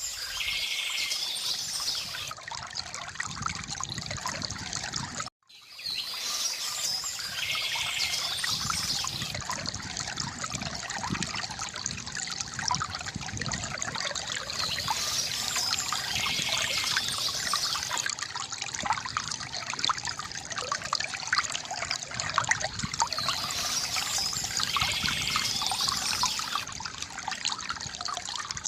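River water gurgling and trickling steadily, with birds chirping softly now and then; the sound drops out briefly about five seconds in.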